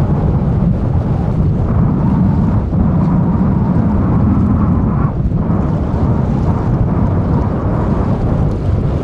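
Steady low rumble of the Airbus A340-300's four jet engines, mixed with wind buffeting the microphone, with a faint steady whine above the rumble.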